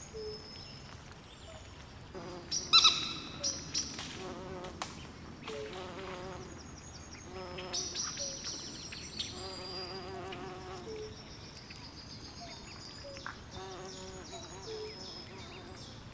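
Swamp night chorus of frogs and insects: short high-pitched chirps repeat throughout, with bursts of low warbling frog trills. The loudest single call comes about three seconds in.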